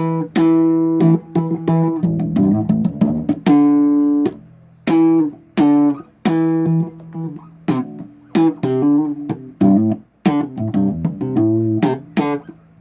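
Bass guitar playing a riff of separate plucked notes with sharp attacks, broken by short gaps between phrases.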